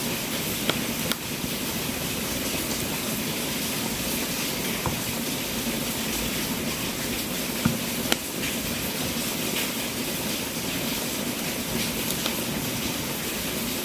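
Wood fire burning in a fireplace: a steady hiss with a few sharp crackles and pops, the loudest pair a little past the middle.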